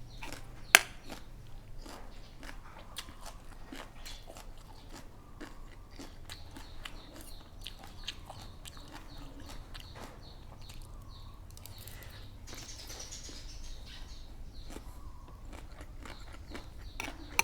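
A person chewing and biting mouthfuls of food, with many small crunches and wet clicks and one sharp click about a second in.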